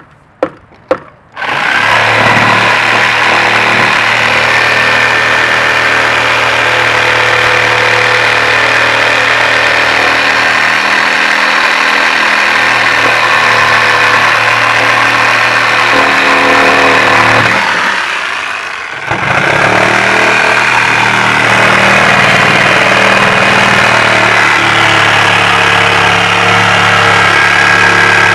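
A few sharp knocks, then an engine starts about a second and a half in and runs steadily. Near two-thirds of the way through it drops off briefly, then picks up and runs on.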